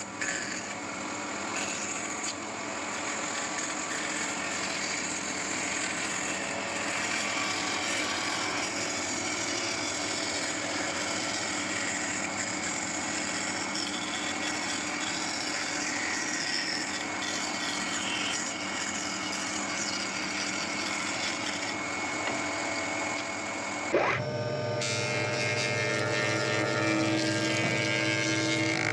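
A power tool cutting into wood with a steady, dense grinding noise. About 24 seconds in, it changes abruptly to a steadier motor hum with a low drone.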